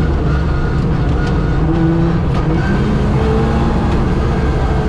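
Suzuki Swift 1.3 GTi rally car's 1.3-litre engine running hard under load, heard from inside the cabin over road and wind noise. The engine note steps up in pitch about halfway through as the revs climb.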